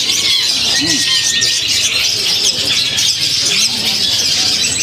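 Long-tailed shrike (cendet) singing a fast, unbroken stream of high chirps, trills and short whistles, with a few low rising-and-falling notes underneath.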